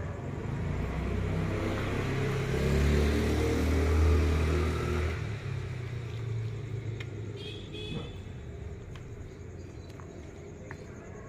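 A motor vehicle's engine passing close by: a low rumble that builds to its loudest about four seconds in, then fades away, followed by a few faint clicks.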